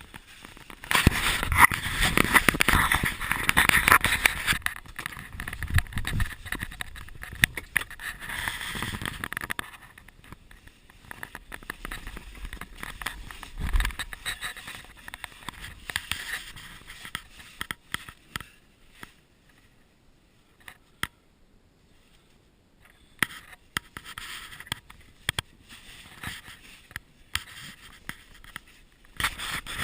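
Scraping and rustling with many sharp knocks, as of a person moving through a cramped cave passage. It is loudest over the first ten seconds, then turns fainter and sporadic and picks up again near the end.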